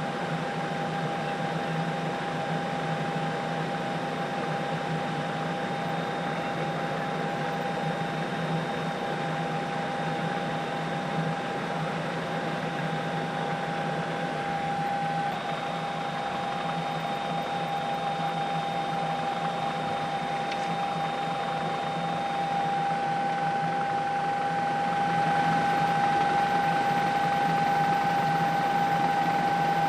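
Steady drone of a helicopter's engine and rotor, with a constant high whine over a low hum; it grows a little louder near the end.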